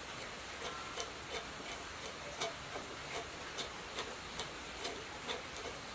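Steady, regular ticking, about two to three clicks a second, over a faint background hiss.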